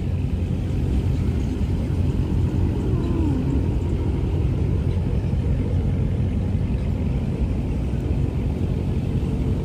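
V8 muscle-car engine running steadily, a low rumble with no revving.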